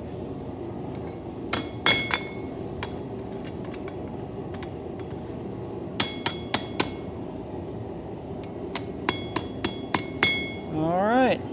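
Hammer striking steel on an anvil in scattered groups of two to six light blows, several leaving a short metallic ring. Near the end a brief rising pitched sound, over a steady low rumble throughout.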